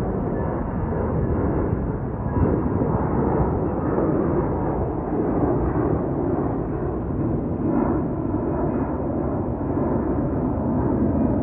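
Aircraft jet engines close by, a loud steady rumbling noise that swells slightly a few times.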